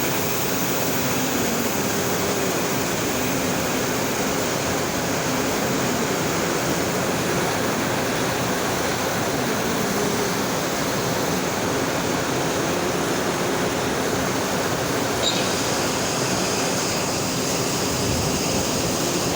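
Steady, loud rushing roar of blast furnace cast-house equipment while the taphole is being drilled open for a cast, with no breaks or changes in level.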